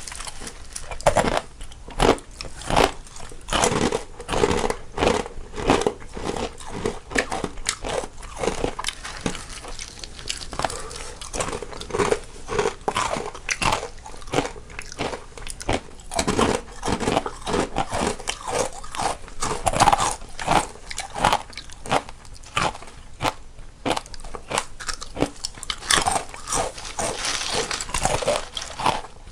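Two people crunching and chewing crisp snacks, with many quick, irregular bites and crackles throughout, one eater on the left and one on the right.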